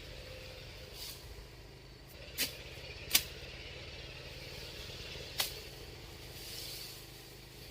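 Four sharp knocks at irregular intervals, the loudest about three seconds in, over a steady low mechanical hum.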